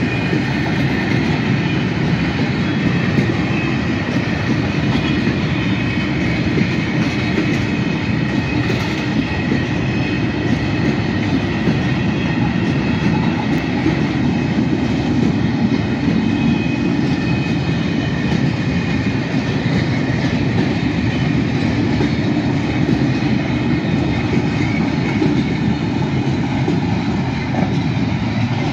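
Empty stake wagons of a freight train rolling past close by: a steady rumble of steel wheels on the rails, with a faint steady high whine above it.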